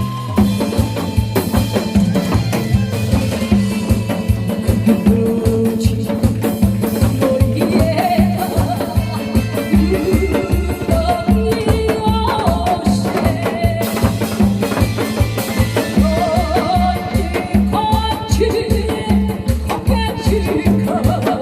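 Backing music for a trot-style song: a steady drum-kit beat under a melodic instrumental line, played as an instrumental break with no singing.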